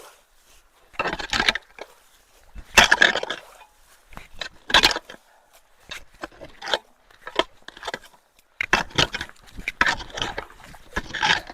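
Repeated irregular bursts of scraping, rustling and splashing as sticks and leaf debris are worked loose from a clogged culvert inlet.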